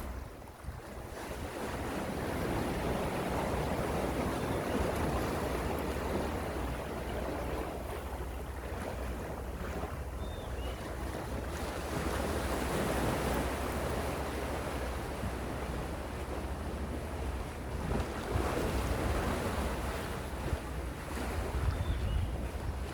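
Gentle sea waves washing onto a shore, a steady surf wash that swells and eases several times, with a low wind rumble on the microphone underneath.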